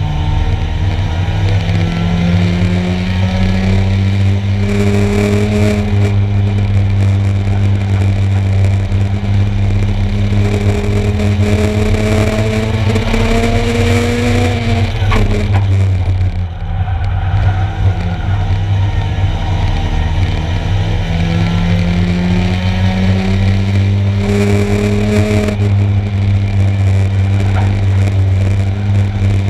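1-litre stock car engines running flat out during a race, the engine note climbing slowly in pitch, easing off and dipping about halfway through, then climbing again.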